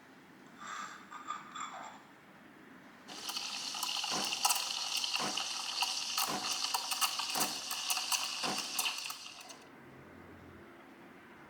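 Water running from a kitchen tap for about six seconds, switched on and off abruptly, after a few light clinks of kitchenware.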